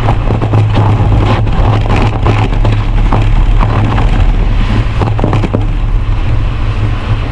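Strong wind buffeting the microphone, a loud steady low rumble, with scattered crackles throughout.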